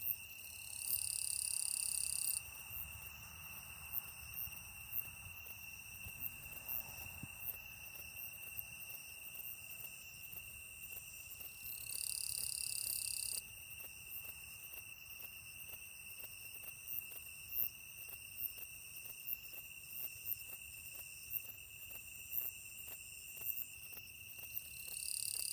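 Insects singing in late summer: one insect keeps up an unbroken high trill. A second, higher buzzing phrase of about a second and a half comes in three times, about a second in, around twelve seconds, and near the end.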